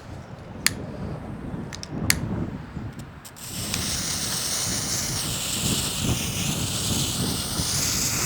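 Two sharp clicks, then about three and a half seconds in a novelty smoke ball catches and hisses loudly and steadily as it pours out smoke. Wind rumbles on the microphone throughout.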